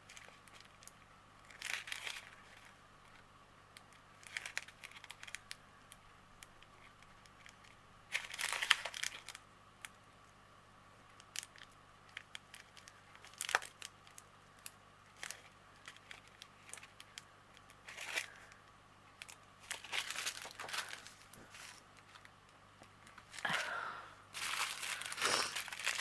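Small plastic packets of diamond painting drills being handled and sorted, crinkling in short scattered bursts with quiet gaps between, busier near the end. A faint steady hum runs underneath.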